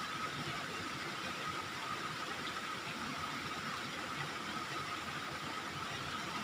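Steady tropical rainforest ambience recorded on a phone: an even hiss with a constant high hum, unchanging in level.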